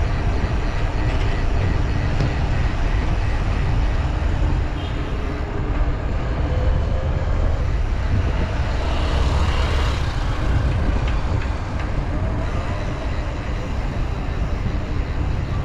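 Steady low rumble of wind buffeting the microphone and road traffic during a bicycle ride, with a louder swell of noise around the middle.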